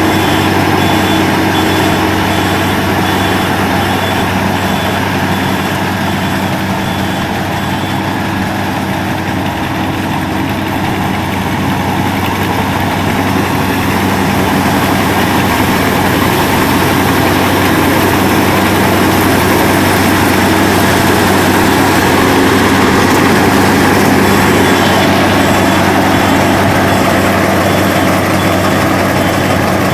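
Engine and threshing works of a rice combine harvester running steadily.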